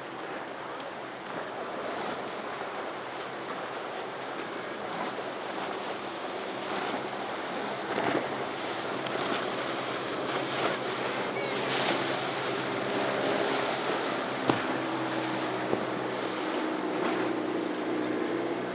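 Surf and wash breaking, with wind on the microphone and the steady drone of a boat's engines running through the inlet, the engine note growing a little louder near the end.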